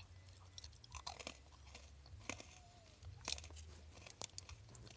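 A person chewing crunchy hard sourdough pretzel pieces, with soft scattered crunches over a low steady hum.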